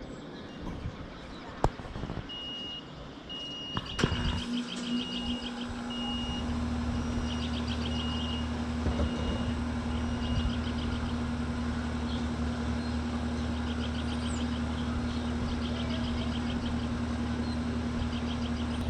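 Carrier Comfort 14 heat pump outdoor unit starting up in cooling mode: a click about four seconds in, and the compressor starts with a steady hum. The condenser fan then spins up over the next couple of seconds and runs steadily with the compressor.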